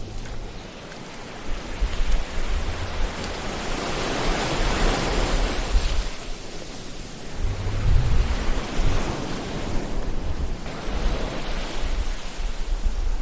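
Ocean surf washing in and out: a wave's rush of noise builds to a peak about five seconds in and fades, and another comes in near eight seconds, over a low rumble.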